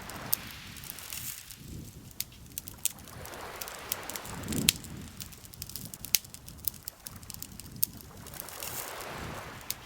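Wood campfire crackling, with frequent sharp pops and snaps, over soft washes of lake water lapping that swell and fade every few seconds.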